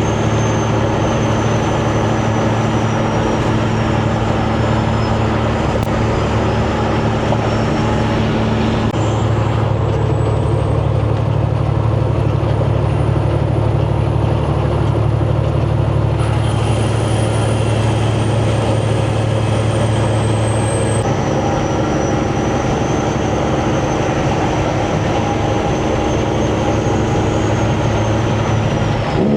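Semi truck's diesel engine running steadily under way, with road noise, as heard from inside the cab. The engine note shifts a few times along the way.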